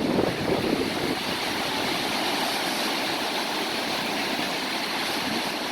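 Strong wind rushing steadily, with low gusts buffeting the microphone in the first second.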